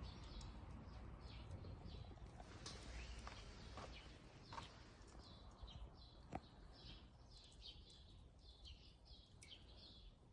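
Small birds chirping over and over in short, high calls, faint against a low background rumble. A few sharp clicks or pops stand out, the loudest about six seconds in.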